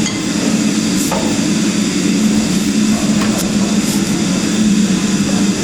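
Steady low hum of an idling train engine, with a few light clanks.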